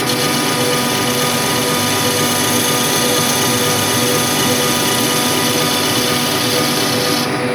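A metalworking machine tool running steadily with a hiss of cutting steel over its motor hum; the cutting hiss stops shortly before the end.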